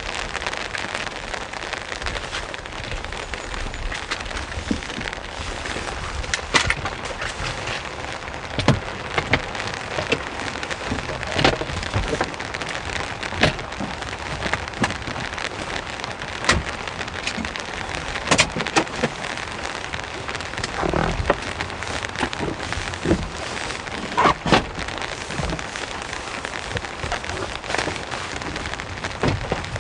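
Heavy rain falling steadily on a hard surface, with larger drops landing as irregular sharp taps.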